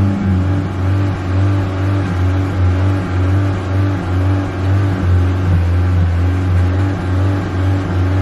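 Honda Civic four-cylinder engine running at low revs under light pedal pumping, its pitch holding steady while its loudness rises and falls a little about once a second.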